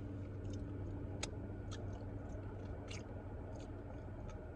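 A person chewing a mouthful of fried chicken sandwich, with scattered sharp wet mouth clicks and lip smacks, over a steady low hum.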